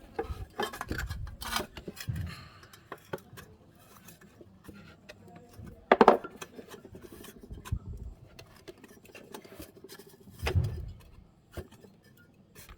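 Scattered clinks, scrapes and knocks of metal parts and hand tools being handled. One sharp, loud knock comes about six seconds in, and a duller thump follows a few seconds later.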